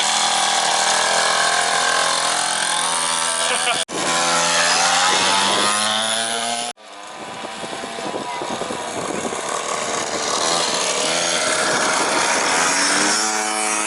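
Small dirt bike engine revving, its pitch rising and falling, with two abrupt breaks about four and seven seconds in.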